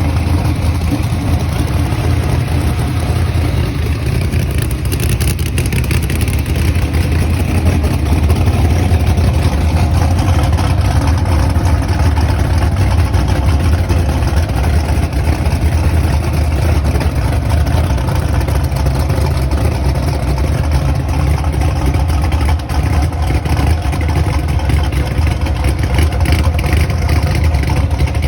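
A vehicle engine running steadily with a deep, low rumble and no hard revving.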